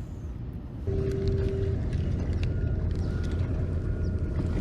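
Small inflatable boat's motor running steadily: a low rumble with a faint steady whine, coming in abruptly about a second in.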